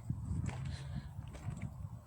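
Quiet outdoor background noise, a faint low rumble with a few light ticks and rustles.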